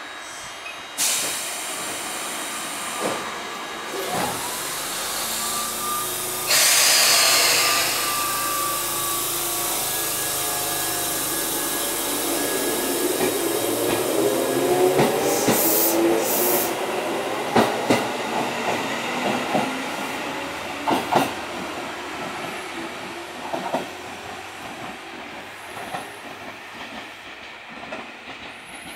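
Tobu electric commuter train departing: a loud burst of compressed-air hiss from the train, then its motors whining upward in pitch as it pulls away, with the wheels clicking over rail joints.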